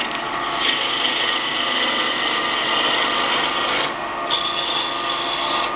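Turning tool cutting into wood spinning on a 1940 Wadkin RS wood lathe: a steady rasping hiss that breaks off briefly about four seconds in.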